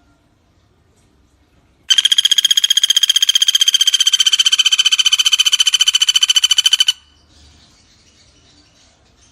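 Pelatuk bawang woodpecker giving one rapid rattling trill of about a dozen notes a second, starting about two seconds in and lasting about five seconds before stopping abruptly.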